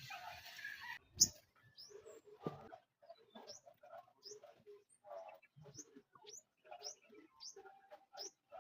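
Newly hatched nestlings in the nest cheeping, short rising chirps repeated about twice a second. A single knock sounds about a second in.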